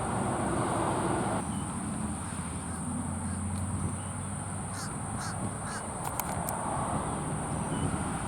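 Bird calls, a short run of several calls about five seconds in, over a steady high-pitched whine and a low background rumble.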